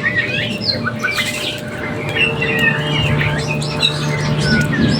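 Small birds chirping and twittering, many quick calls sliding up and down in pitch and overlapping. A steady low hum comes in about two seconds in.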